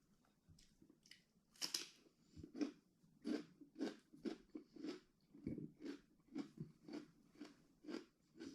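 A person chewing crunchy food with steady, crisp bites, about two a second.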